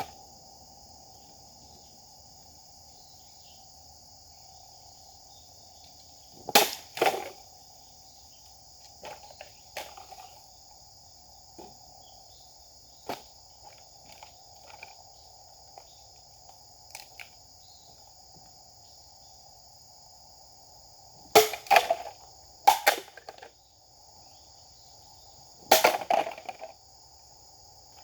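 Japanese sword swung in cutting strokes, each a brief sharp swish: two close together about six and a half seconds in, three in quick succession around twenty-two seconds, and one more near twenty-six seconds. Steady insect buzz, cicadas or crickets, runs underneath.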